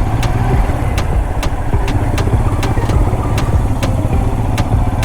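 Motorcycle engine running steadily while riding an off-road trail, with sharp knocks about twice a second.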